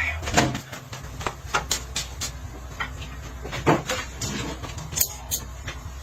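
A string of irregular sharp clicks and knocks, like things being handled and set down, the loudest about three and a half seconds in, over a low steady hum.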